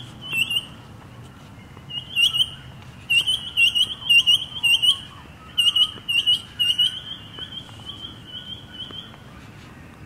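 A bird calling a short, sharp, hooked note over and over, about three times a second, in bouts of a few notes. The notes grow fainter near the end.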